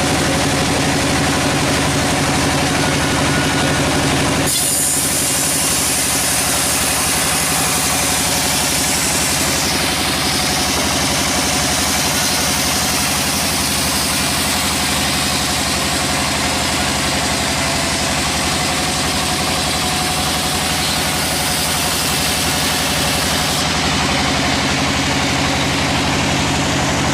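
A sawmill's engine running steadily. About four seconds in, a loud sawing hiss joins it as the blade cuts through a log, and it stops a few seconds before the end, leaving the engine running.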